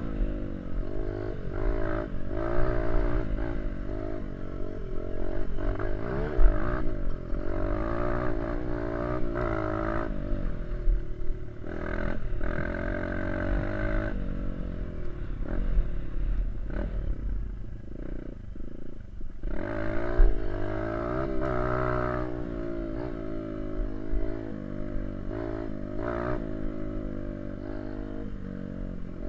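Small dirt bike engine revving up and down through the gears while riding, the pitch climbing and dropping repeatedly and easing off briefly about two-thirds of the way through before pulling again. A steady low rumble, typical of wind on the microphone, runs underneath.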